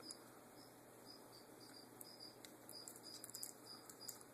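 Near silence, with a cricket chirping faintly and steadily at about three chirps a second.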